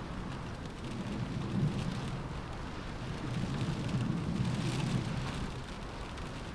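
Steady rain falling against a window, with a low rumble of windstorm gusts that swells and eases.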